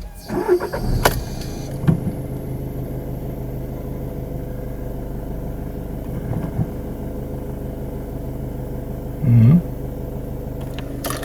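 VW Golf 7 1.6 TDI four-cylinder diesel starting and settling within about a second into a steady idle, now running after the fuel pump control module was replaced for a crank-no-start fault. A brief louder sound comes about nine seconds in.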